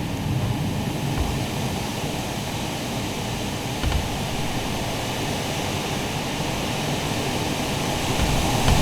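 Thunderstorm wind blowing hard, a steady rushing noise that grows louder near the end. Low thumps of gusts buffeting the microphone come about a second in, near four seconds, and again near the end.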